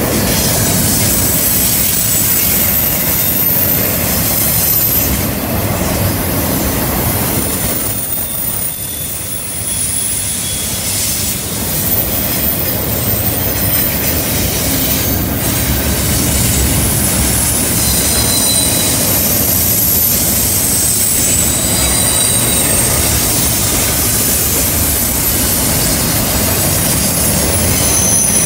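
Double-stack container well cars rolling past on a curve: a steady loud rumble of steel wheels on the rails, with high-pitched flange squeals coming and going as the wheels grind through the curve.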